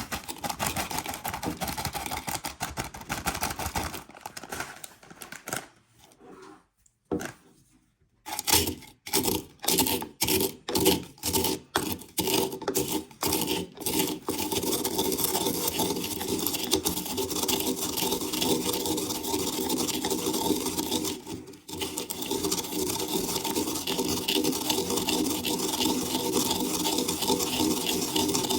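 Electric spice grinder crushing Doritos chips: after a few seconds of rustling and a short pause, it is pulsed in a quick series of short bursts, then runs steadily with a motor hum under the grinding noise.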